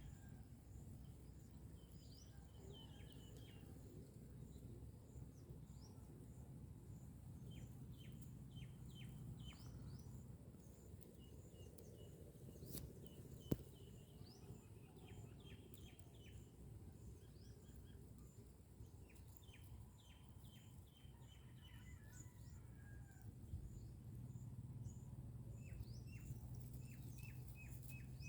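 Faint bird calls: runs of short, quick downward chirps, several at a time every few seconds, over a low steady background rumble. One sharp click sounds about halfway through.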